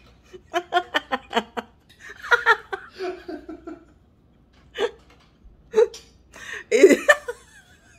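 People laughing: a quick run of laughs about half a second in, then scattered chuckles and short vocal sounds.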